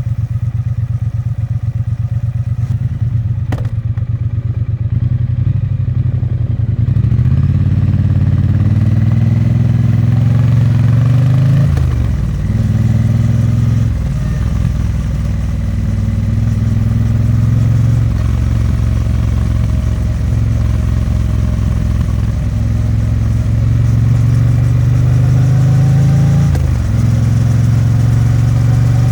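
Exhaust of a 2022 Triumph Bonneville T100's 900 cc parallel twin while riding. It pulls from low revs, and the engine note climbs and then drops at each gear change, about 12, 14, 18 and 27 seconds in.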